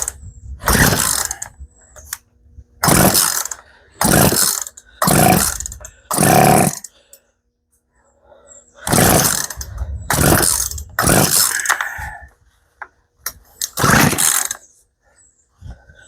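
Poulan P3314 two-stroke chainsaw's recoil starter cord pulled about ten times in quick groups, each pull a short rasp. The engine does not settle into a steady run.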